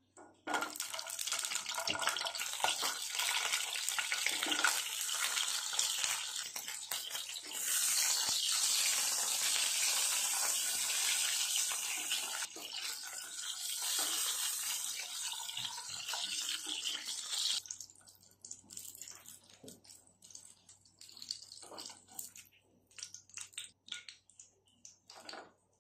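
Sausages sizzling in hot oil in a nonstick frying pan. The sizzle starts abruptly as they go into the oil and cuts off about two-thirds of the way through. After that come scattered light clicks and scrapes of a spatula against the pan.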